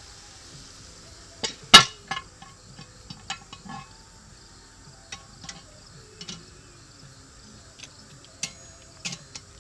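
Metal cookware being handled at a campfire, with the lid going on a Dutch oven: one sharp clank about two seconds in, then scattered lighter clinks and knocks.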